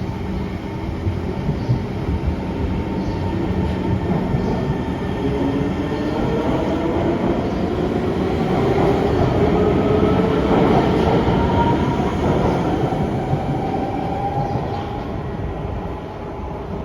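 SMRT C151 electric metro train pulling away, its traction motors whining upward in pitch as it accelerates, over the rumble of the wheels on the rails. The sound grows louder toward the middle, then eases off as the train draws away.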